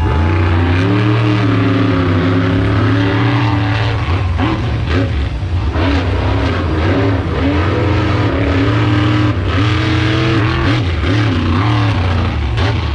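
Monster truck engine revving hard, its pitch rising and falling again and again as the throttle is worked.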